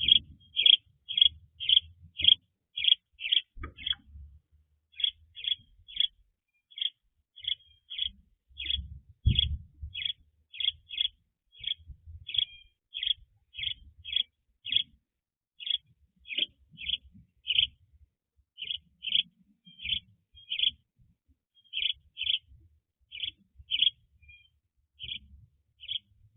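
A bird calling a short, high chirp over and over, about two a second, with faint low thumps underneath.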